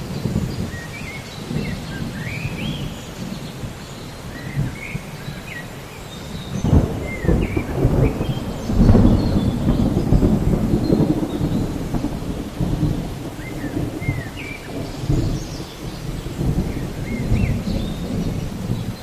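Thunderstorm: low rolling thunder over steady rain. The rumble swells loudest about halfway through.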